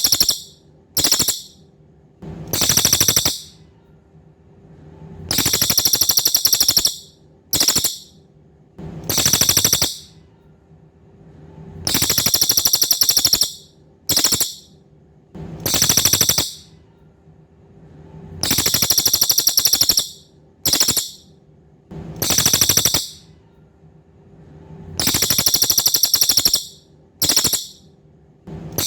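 Cililin songbird singing high, rapid, buzzy trills in phrases. A long phrase, a short chip-like burst and a medium phrase repeat in a regular cycle about every six and a half seconds. A faint steady hum runs underneath.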